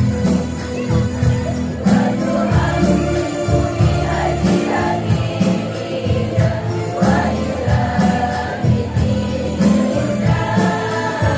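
Women's choir singing a devotional song in unison, accompanied by percussion with jingles that strikes a steady beat.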